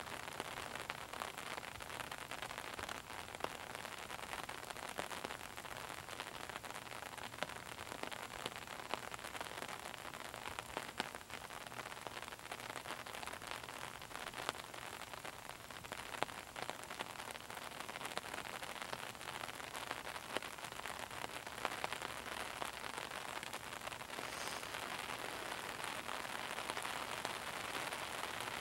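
Steady rain falling, an even hiss with many separate drop hits close by.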